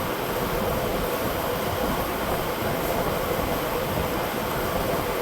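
Steady rushing of compressed air filling a truck tire on a split rim, over a continuous mechanical drone with a hum in the middle range.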